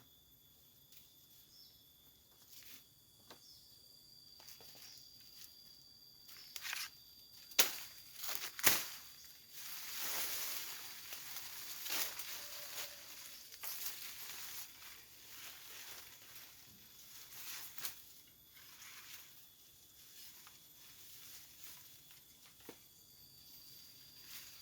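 Rustling of leaves and branches being handled, with two sharp cracks about eight seconds in, over the steady high buzzing of forest insects.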